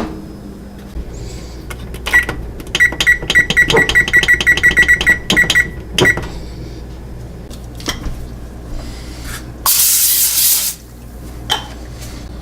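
An oven's electronic control keypad beeping: a run of about a dozen quick, high, even beeps as it is set. Near the end comes a hiss lasting about a second, with scattered clicks and knocks of kitchen handling around it.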